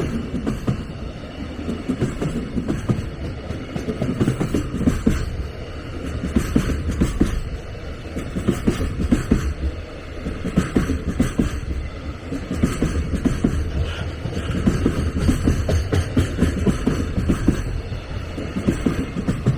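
A train running past on the rails, with a steady low rumble and many irregular wheel knocks.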